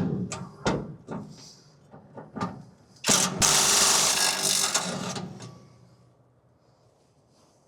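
A few sharp metal knocks, then a power tool rattles hard for about two and a half seconds on a seized shock bolt and stops.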